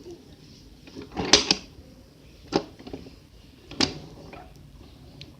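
Toy trains being handled and pushed, giving a few sharp clacks and knocks about a second apart.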